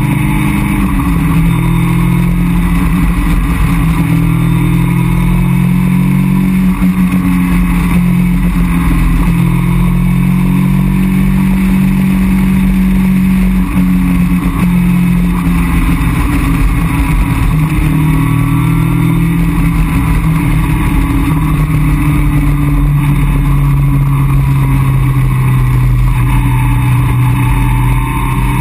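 Caterham Roadsport 175's four-cylinder engine pulling at steady, moderate revs while cruising, heard from the open cockpit with wind rushing over the car. The engine note eases a little lower about halfway through.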